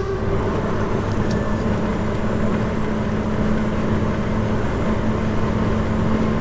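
Car engine idling with a steady low hum. A loud horn note cuts off right at the start.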